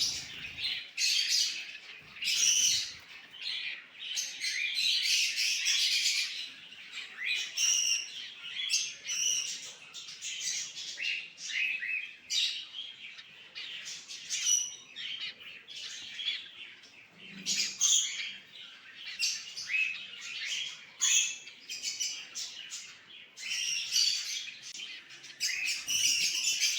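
A flock of cockatiels chirping and calling, with many short, high calls overlapping and repeating.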